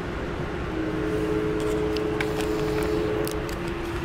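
Inside a moving passenger train: a steady rumble of running noise, with a steady two-note hum that comes in about a second in, and a few faint light ticks.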